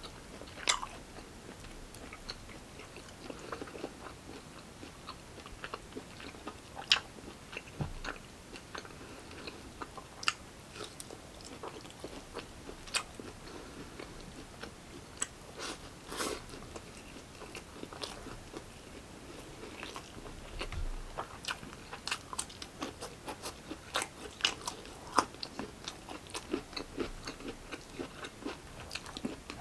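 A person chewing a mouthful of steak and rice, with frequent sharp, irregular mouth clicks and smacks.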